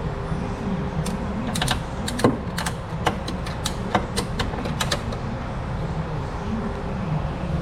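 Ratchet strap being cranked: about a dozen sharp clicks of its ratchet mechanism from about a second in to about five seconds in, over a steady low hum.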